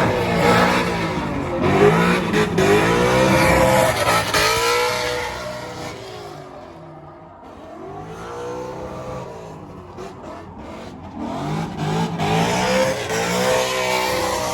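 Drift car engines revving hard, their pitch swooping up and down again and again, with tyre squeal. Loud at first, falling back in the middle, and loud again for the last few seconds.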